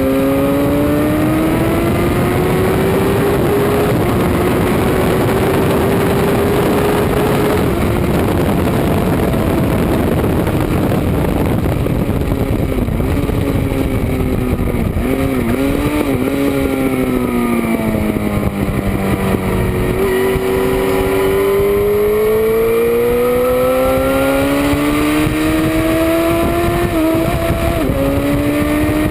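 Track motorcycle at speed, heard from a rear-mounted camera: the engine's pitch climbs steadily under acceleration, drops and wavers in the middle as the bike slows, then climbs again with a quick gear change near the end. Steady wind rush runs under it.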